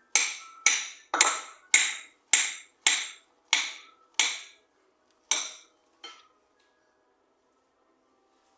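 Sharp knocks of a kitchen utensil striking a hard surface: about nine evenly spaced strokes, roughly two a second, then one more after a short pause.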